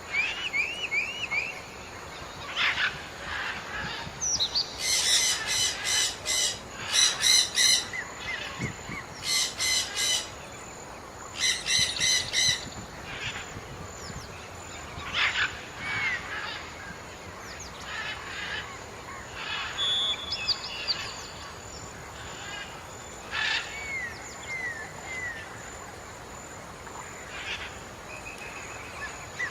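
Birds calling outdoors. Loud series of rapid, harsh repeated notes come in several bursts between about 5 and 13 seconds in, with shorter chirps and whistled notes scattered through the rest.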